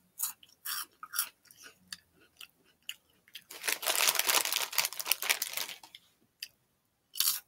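A crunchy Flamin' Hot Cheeto being chewed, with scattered crunches at first. About halfway there is a louder stretch of dense crackling that lasts a couple of seconds.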